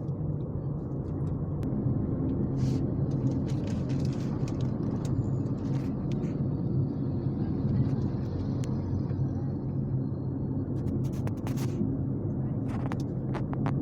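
Car engine and tyre noise inside the cabin while driving along steadily, a constant low hum, with a few short clicks and knocks.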